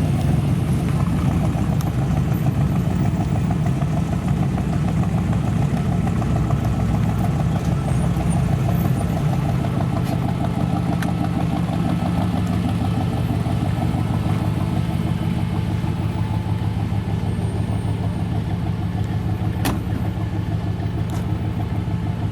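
An American car's engine idling steadily at a car meet.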